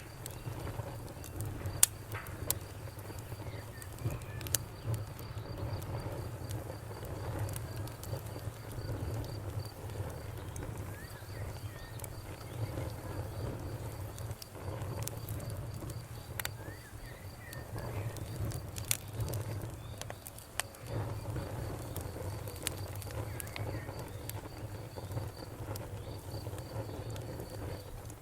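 Campfire crackling with scattered sharp pops, the loudest about two seconds in, over a steady low rumble. Crickets trill continuously in the background.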